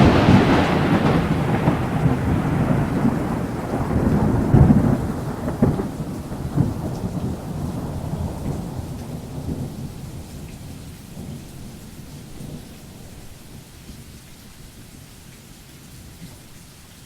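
Thunder rumbling after a clap, swelling a few times and then fading away over about twelve seconds, with steady rain falling throughout.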